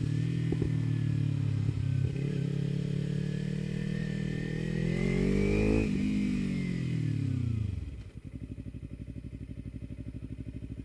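Kawasaki Ninja 300's parallel-twin engine through an Akrapovič slip-on exhaust, running at steady revs, then climbing in pitch under acceleration about halfway through. It winds down and settles into a quieter, even idle for the last few seconds.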